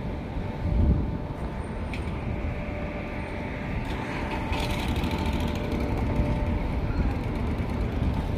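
Steady low rumble of a moving vehicle, road and engine noise, with a few faint clicks.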